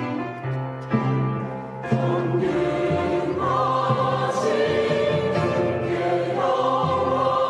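Church choir singing an anthem over orchestral accompaniment. A quieter passage opens it, then the full choir comes in louder about two seconds in and holds sustained chords.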